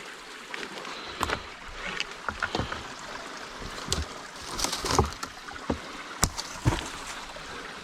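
Footsteps scuffing and knocking on rock while climbing down a steep rocky slope: irregular sharp clicks and scrapes over the steady rush of a small stream.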